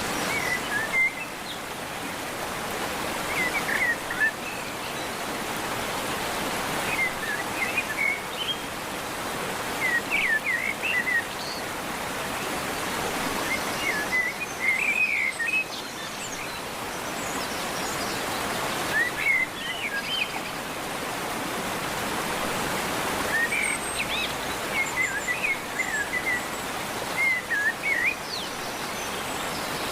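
Canaries giving short chirping calls in small clusters every few seconds, over a steady background hiss.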